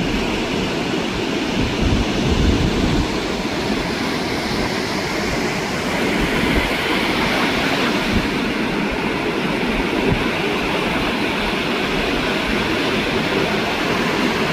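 Ocean surf breaking and washing up the beach, a steady rushing noise that swells brighter about halfway through as a wave comes in, with wind buffeting the microphone underneath.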